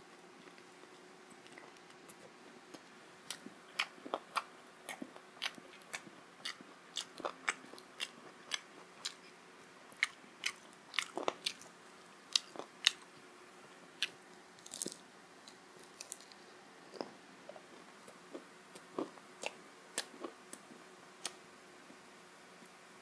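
Close-up chewing and biting of fried chicken lollipop: an irregular run of sharp crunches and wet mouth clicks, thickest in the middle.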